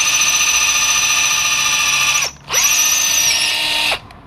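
Electric drill with a 15/64 bit boring through the broken shift lever, soft metal he thinks is aluminium, with the bit almost through. It runs at a steady high whine, stops about two seconds in, spins back up with a rising whine a moment later, and stops again near the end.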